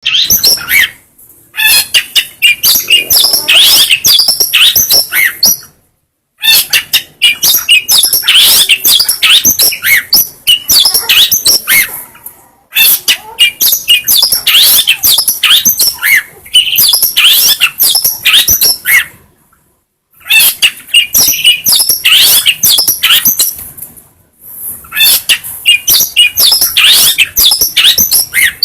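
Long-tailed shrike (cendet) singing a loud, rapid song of varied chirps and quick falling notes. It sings in bouts of a few seconds each, with short pauses between them.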